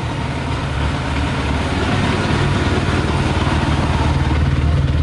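Yamaha YZF600R's four-cylinder engine idling steadily while running on 40% whisky instead of petrol.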